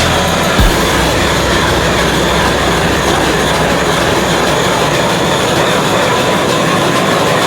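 Steady noise of a car on the move: a dense, even rush of road and wind noise with the engine underneath, and a faint tone slowly rising near the end.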